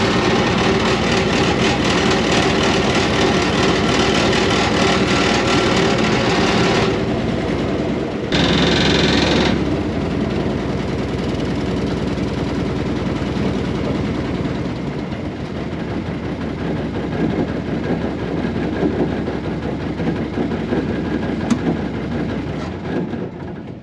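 Air-cooled Deutz diesel engine of a 1970s excavator running steadily after a cold start. Its sound changes about seven seconds in, with a short hiss around nine seconds. It then runs on more quietly, and the level drops away sharply near the end.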